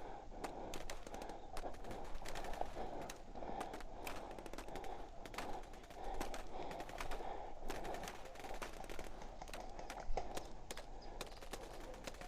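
Airsoft replicas firing: irregular sharp pops, single shots and short clusters, over a steady rustling hiss.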